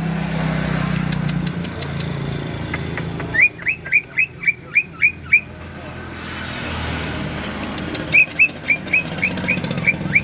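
A songbird singing two runs of short, quickly rising whistled notes, about four a second and eight or nine notes in each run. The first run comes about three seconds in, the second near the end. A steady low engine-like rumble runs underneath.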